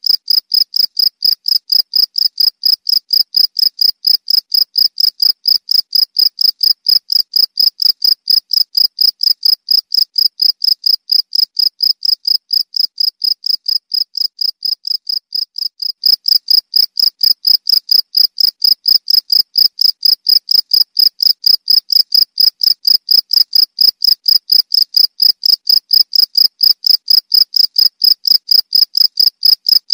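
Cricket chirping in a steady, even rhythm of about four high-pitched chirps a second. The level sags slightly and then jumps back about halfway through.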